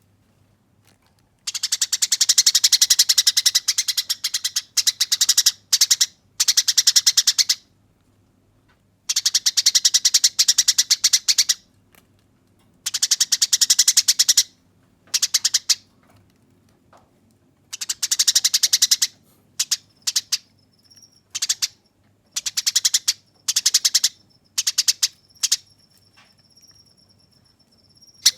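Eurasian tree sparrows giving their harsh, rolling fighting chatter: dense runs of rapid chirps in bursts of a few seconds or less, with short silences between them. Near the end the bursts grow shorter, and a thin, high, steady tone sounds between them.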